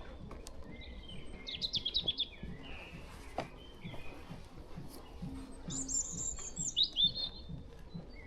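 European robin singing: two high, thin, quick phrases, the second reaching up high and then sliding down. Under it, soft, even footsteps on the forest floor.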